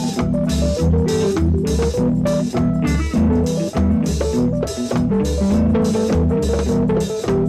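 Instrumental passage of a reggae song with no vocals: bass guitar, guitar, organ and drum kit, with sharp off-beat chops about twice a second.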